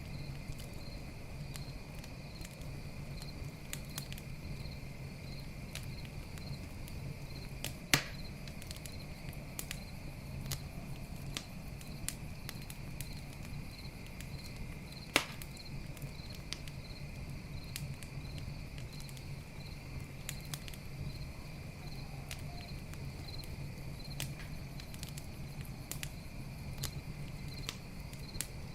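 Campfire burning and crackling, with frequent small snaps and two much louder pops, about eight and fifteen seconds in. Crickets chirp in a steady, evenly pulsing chorus behind it.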